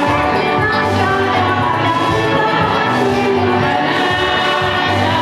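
A group of voices singing a church song over instrumental backing with a pulsing bass.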